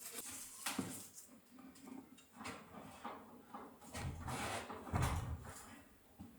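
Irregular scraping, rustling and knocking of building work as materials are handled, with heavier thuds about four and five seconds in.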